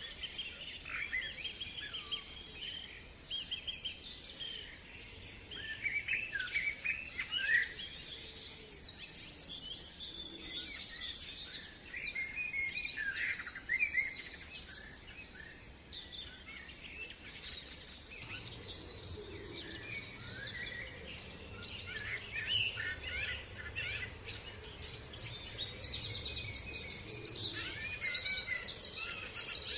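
Several songbirds singing and calling at once, a dense chorus of quick chirps, trills and sweeping notes, with a faint low rumble underneath in the second half.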